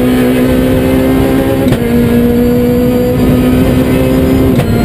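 Rally car engine running hard at high revs, heard from inside the cabin, with tyre and road noise underneath. The note holds nearly steady pitch and is broken briefly twice by a short click.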